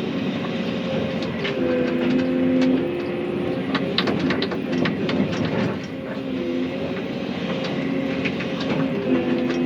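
Excavator's diesel engine and hydraulics working under load, with a steady whine that fades out and returns. Scattered sharp cracks and clanks run over it.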